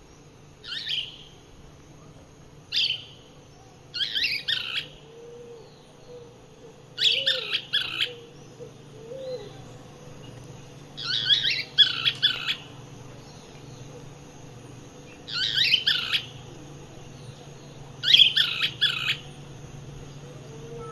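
A bird singing, with seven high phrases repeated every two to four seconds; the first few are short and the later ones longer and more complex.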